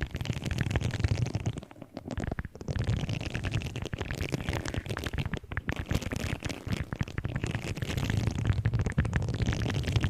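Close-miked objects being handled: a dense run of crackling, scratching and rapid clicks, with short pauses about two seconds in and again near the middle.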